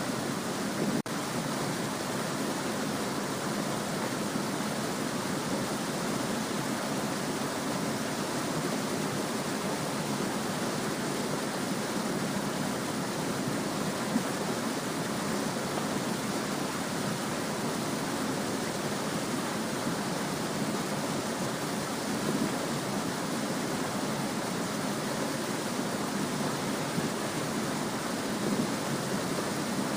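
Small stream babbling: a continuous, even rush of water that holds steady throughout, with a brief tick and dip about a second in.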